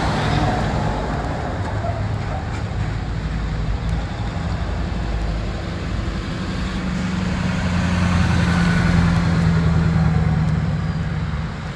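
Tow trucks driving past in a line, their engines a steady low rumble; one truck's engine grows louder about two-thirds of the way in as it passes, then fades.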